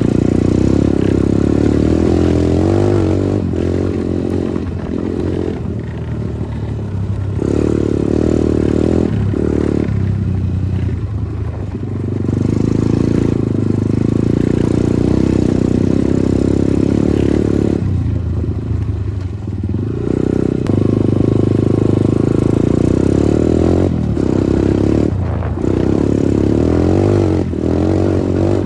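Progasi Smart Max 150 dirt bike engine running under way, its note rising and falling with the throttle, easing off several times and picking up again.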